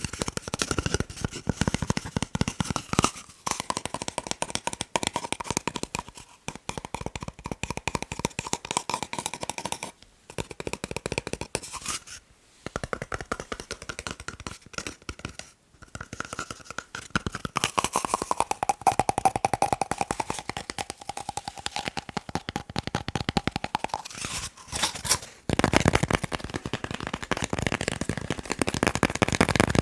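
Fast fingertip tapping on a paper roll: a dense run of many quick taps a second, broken by a few brief pauses.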